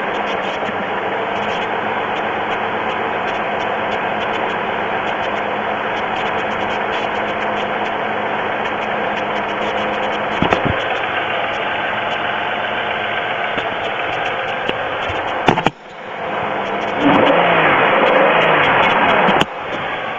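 GM 3.4L pushrod V6 running with a steady ticking noise, which the owner suspects is piston slap despite a full oil level. About three-quarters of the way through the sound dips suddenly, then comes back louder for a couple of seconds before cutting back abruptly near the end.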